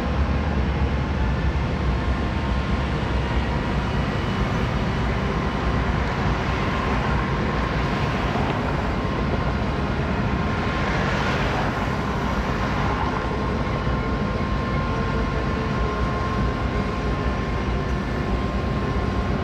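Mixed freight train rolling by with a steady, loud rumble. A thin, steady high tone runs over it.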